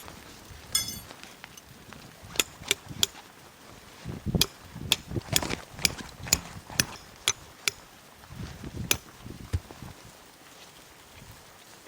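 A series of sharp knocks, each with a dull thud, about two a second from about two seconds in until near the end, with a brief high squeak near the start.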